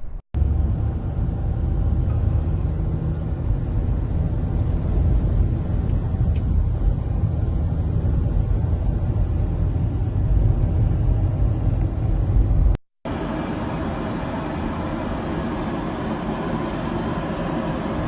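Loud, steady rumbling noise, heaviest in the low end, for about twelve seconds. It drops out abruptly about 13 seconds in, then resumes as a steadier, more even hiss.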